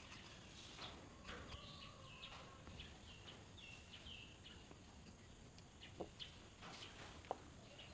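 Near silence with faint bird chirps in the background, short and scattered, and a couple of soft clicks near the end.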